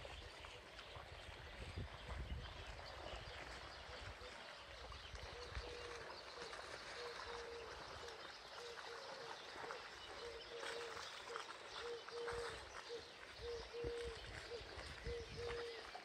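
A bird giving a long run of low, even-pitched hoots, one short note after another, starting about five seconds in. Underneath is a steady background hiss.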